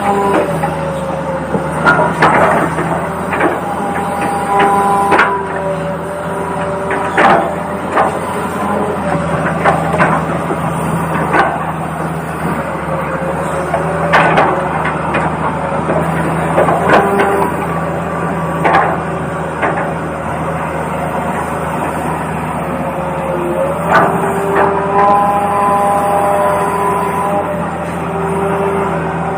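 Toy RC excavator's electric motors whining, the pitch stepping up and down and cutting in and out as it works, with scattered clicks and knocks from the bucket and arm digging.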